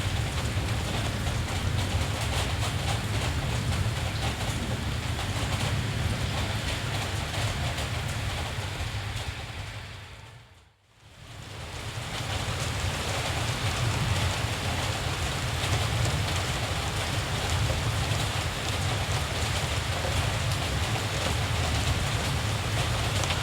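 Steady rainfall with a low rumble under it, fading out to a moment of silence about ten seconds in and fading straight back up.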